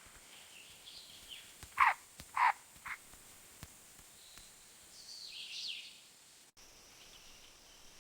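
Outdoor natural ambience with short animal calls: three sharp calls in quick succession about two seconds in, then fainter high chirping over a low hiss.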